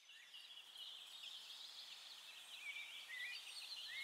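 Small birds singing in a faint, dense chorus of quick chirps and short trills, fading in at the start.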